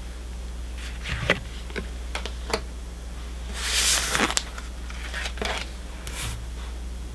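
Pokémon trading cards being handled and flipped through, with scattered light clicks and a longer rustling slide about four seconds in, over a steady low hum.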